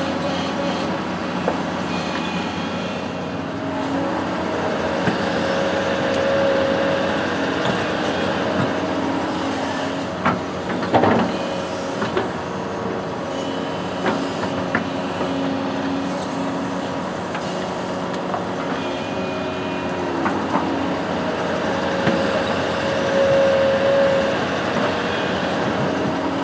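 Diesel engine of a construction machine running steadily, its note swelling a little twice, with a few sharp knocks or clanks near the middle.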